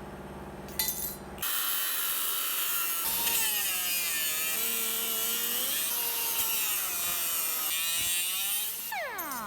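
A power tool cutting or grinding under load. It starts about a second and a half in, with its pitch wavering as it bites, then winds down near the end.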